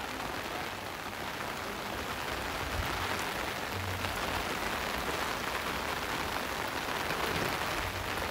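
Steady rain falling on wet stone paving and potted plants: an even hiss with no breaks.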